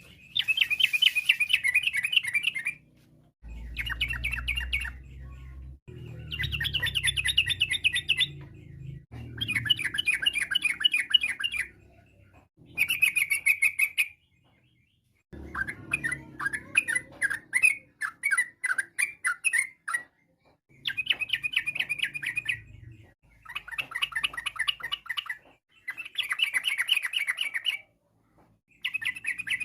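Yellow-vented bulbul (trucukan) singing in repeated bursts of rapid chattering song, each about two to three seconds long with short pauses between, and a looser run of separate notes about halfway through.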